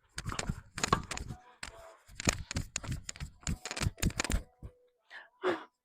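A rapid, irregular run of sharp knocks and clicks lasting about four and a half seconds, followed by one more short knock near the end.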